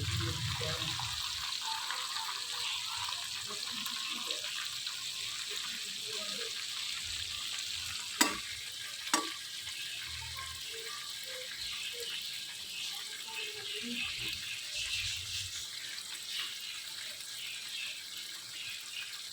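Chicken pieces frying in hot oil, a steady sizzle. Two sharp knocks about a second apart, roughly eight seconds in.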